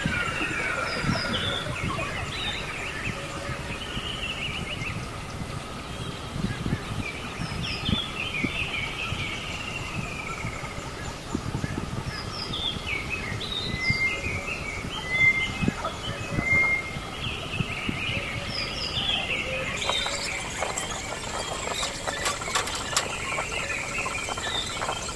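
Birds chirping and twittering in repeated short bursts of calls, over a faint steady background hum.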